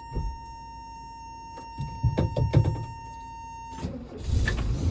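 A steady high warning buzzer from the 1984 VW Westfalia's dashboard, with a few knocks from inside the cab. About four seconds in the buzzer cuts off and the van's flat-four engine cranks and catches on a cold start.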